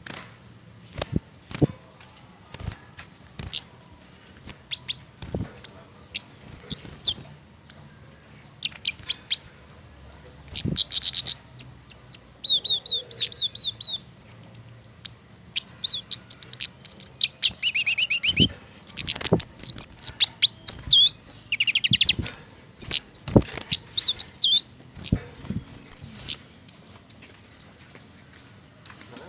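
A kemade (cici geni), a small mistletoe-eating songbird, calling and singing: a string of sharp, high chips that grows busier after about nine seconds, with rapid falling trills and a short buzzy phrase in between. Scattered soft knocks sound among the calls.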